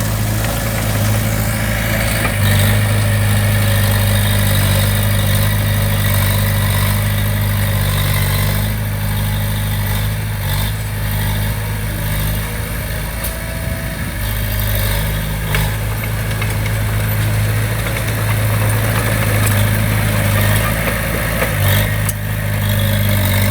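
Diesel engine of heavy earthmoving equipment running steadily, with a constant low drone.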